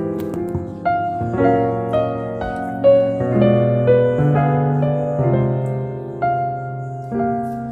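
Background piano music: a slow piece with sustained notes, a new note or chord struck about once a second.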